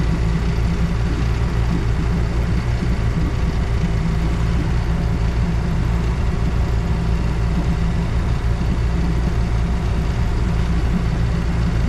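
An engine running steadily at an unchanging speed: a constant low drone with no revving or breaks.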